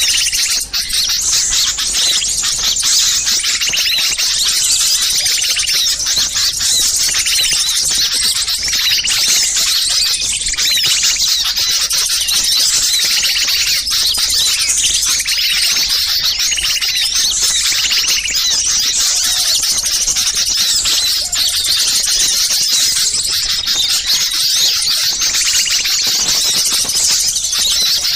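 A dense, noisy chorus of many small songbirds chirping and calling over one another without a break: a layered bird-lure recording of agitated small birds.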